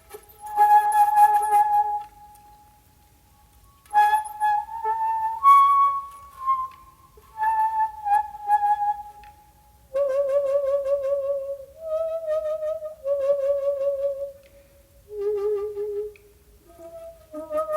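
Solo shakuhachi (end-blown bamboo flute) playing slow, held notes in short phrases separated by pauses, with breathy attacks at the start of the early phrases. From about halfway through, the notes sit lower and waver with vibrato.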